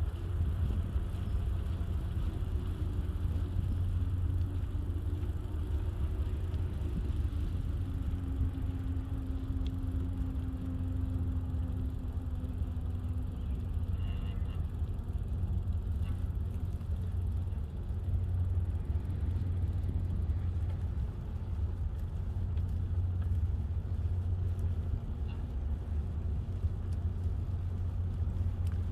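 Steady low rumble of riding along on a bicycle: wind buffeting the microphone and tyres rolling on the path. A faint wavering hum runs under it for the first dozen seconds.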